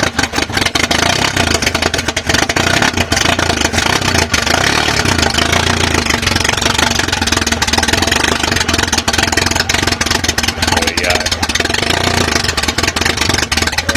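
Toyota 2E 1.3-litre four-cylinder on twin Weber DCOE 40 carburettors with a TRD 292 cam, running steadily and loudly just after catching on its first start after the rebuild.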